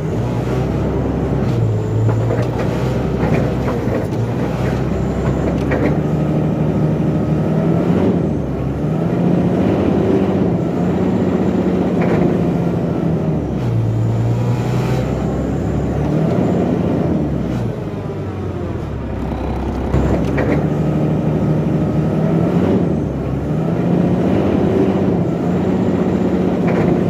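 Bobcat skid steer loader's engine running and revving up and down again and again under load, with a few sharp clanks.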